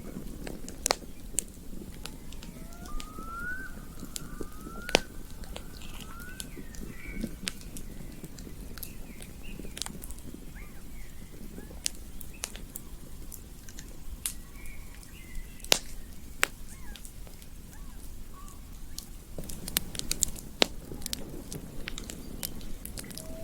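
Campfire crackling, with irregular sharp pops over a steady low rumble of the burning fire. A few faint, short rising chirps from a bird or other animal come between about three and seven seconds in.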